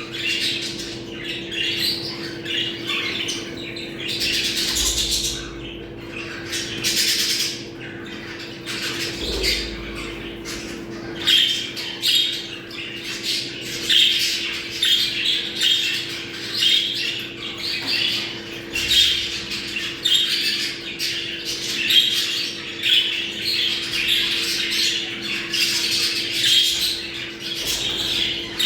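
A flock of budgerigars chattering, warbling and squawking without pause, the busy mating-season chatter used to bring budgies into breeding condition. A steady low hum runs underneath.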